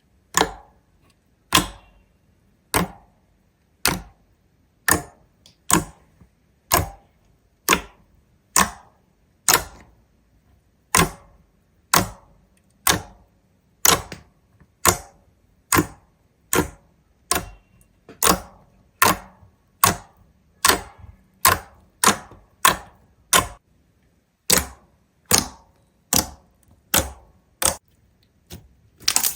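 A regular series of sharp clicks or taps, about one a second at first and speeding up to nearly two a second in the second half, with a brief pause about two-thirds of the way through.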